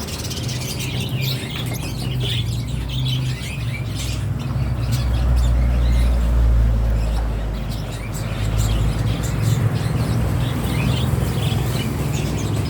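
Short, scattered bird chirps with a few sharp ticks, over a steady low hum that swells in the middle.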